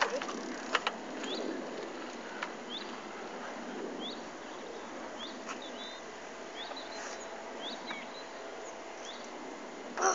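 Small birds chirping, short rising chirps repeated about once a second over a steady outdoor hiss, with a few faint clicks and a louder bump at the very end.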